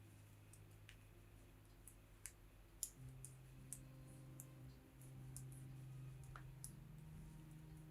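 Faint, irregular clicking of metal circular knitting needles as stitches are worked, over soft, low sustained notes of background music.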